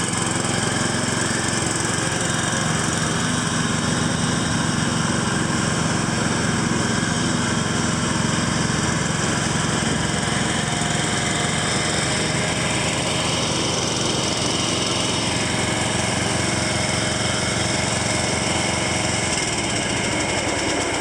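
Huskee 17.5 HP lawn tractor engine running steadily. Its deepest low note drops away about two seconds before the end.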